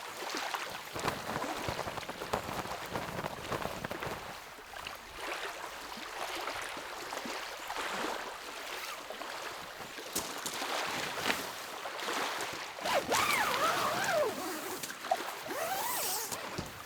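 Small lake waves lapping and splashing at the shore. A few short gliding calls come through about two-thirds of the way in.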